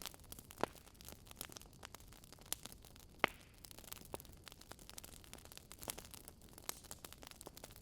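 Fire burning in a fireplace, crackling with irregular sharp pops over a soft hiss; one pop a little past the three-second mark is the loudest.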